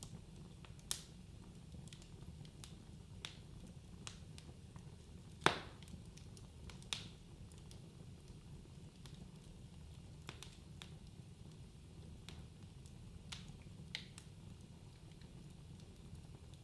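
Wood fire burning in a fireplace: a soft low rumble of the flames with irregular sharp crackles and pops, the loudest pop about five and a half seconds in.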